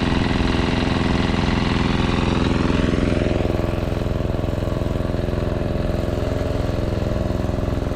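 Portable generator engine running steadily, with its note rising slightly about three seconds in.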